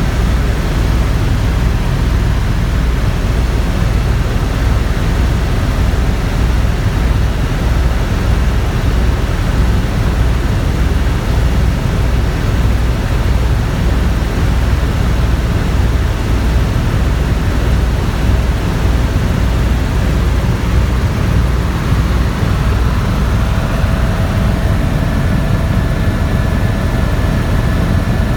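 Helicopter in flight: a steady engine and rotor noise with a low, fast throb underneath. A faint, steady high whine joins in toward the end.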